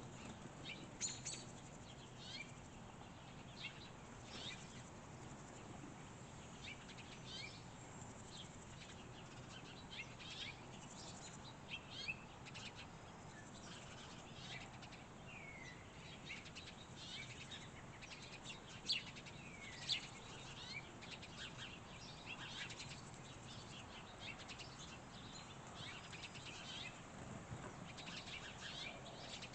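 Songbirds chirping: many short, high calls, some sliding down in pitch, scattered throughout, with two louder calls a little under two-thirds of the way through.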